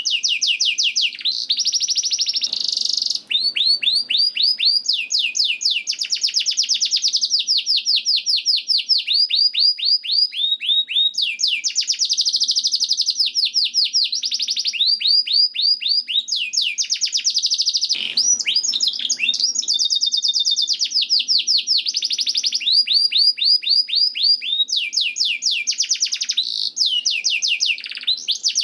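Domestic canary singing a long, continuous song of rapid trills: each phrase a fast run of repeated falling notes, switching to a new phrase every second or two.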